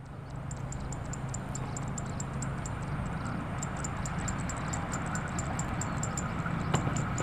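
Prambanan Ekspres diesel train approaching, its engine a steady low hum that grows slowly louder. A rapid, faint, high-pitched ticking runs over it.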